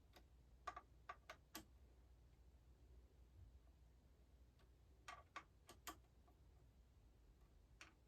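Faint, sharp clicks and taps of small tools and hardware being handled on a guitar during a setup, in two quick clusters of about five, with one more click near the end.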